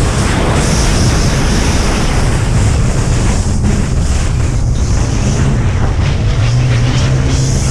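Racing jet ski engine running steadily at speed, with water spray hissing and wind buffeting the microphone.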